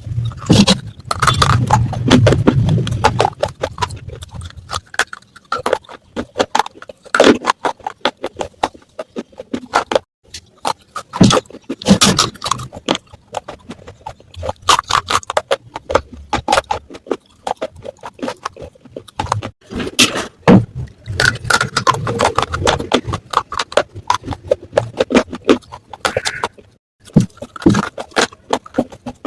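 Close-miked crunching of pieces of matka, an unglazed clay pot: rapid runs of small sharp cracks and crackles, with brief pauses between them.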